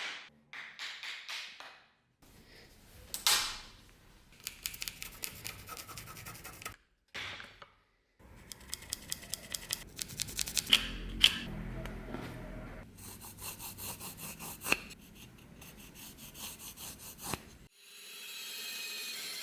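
Repeated rubbing and scrubbing strokes on the metal of an antique cavalry sword blade, in several short bursts broken by abrupt cuts. Near the end a steady machine hum starts.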